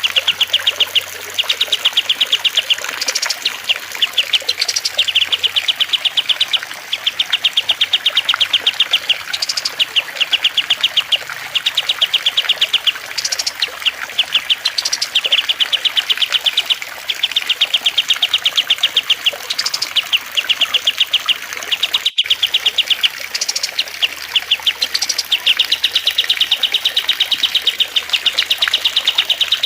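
Small songbirds singing in rapid, dry trills, phrase after phrase of fast ticking notes a second or two long, with short high rising notes in between, over a faint steady trickle of water. The song cuts out for an instant about two-thirds of the way through.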